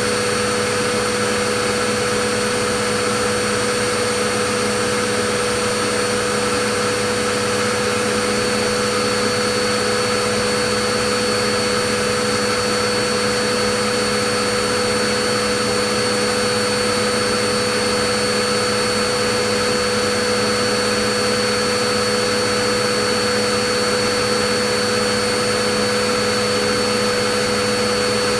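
Vacuum cleaner running steadily: a constant airy rush with a steady motor whine, no change in speed.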